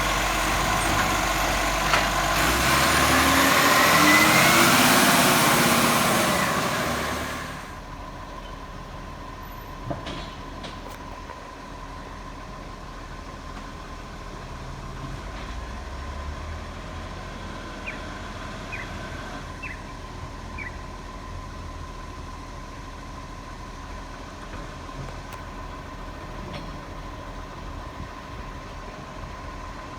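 Garbage truck engine running and rising in pitch as it revs, loudest about four seconds in, then dropping away abruptly about seven seconds in to a quieter steady background hum.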